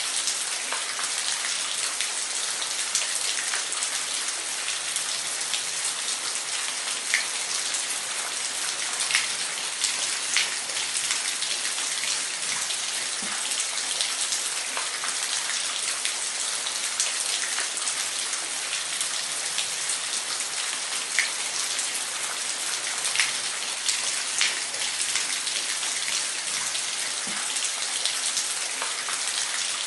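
Steady hiss of falling water from a waterfall, with many small drop and splash ticks scattered through it.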